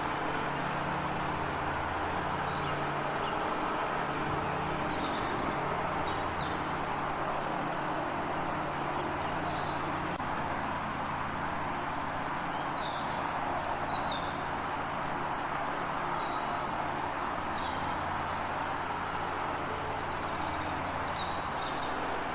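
Small birds chirping in short, high calls scattered throughout, over a steady background rumble and hiss with a constant low hum.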